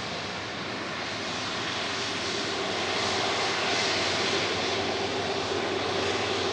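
Airliner engine noise as a passenger jet passes the runway. The roar builds to its loudest about three to four seconds in and then eases a little, with a faint steady whine underneath.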